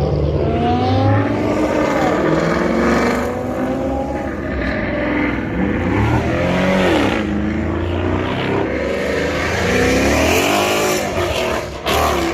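Car engine revving hard through a loud catless exhaust, its pitch climbing and falling about three times, with a sharp crack near the end.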